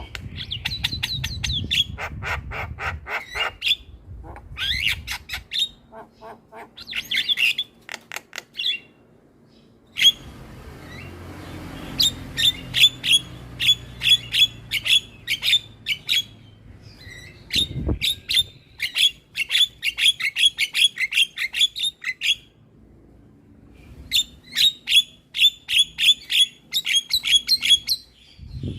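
Javan myna (jalak kebo) calling: bursts of rapid, sharp chattering notes, several runs of a few seconds each separated by short pauses.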